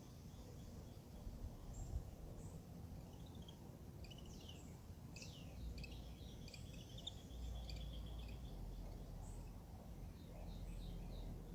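Wild birds chirping and calling faintly, short high notes and quick falling calls that cluster from about four to eight seconds in, over a low steady background rumble.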